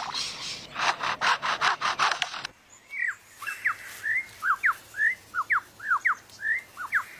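Songbird mimicry. It starts with about two and a half seconds of harsh, rasping strokes repeated several times a second. After an abrupt cut comes a string of short whistled notes, each sweeping quickly down in pitch, about two a second.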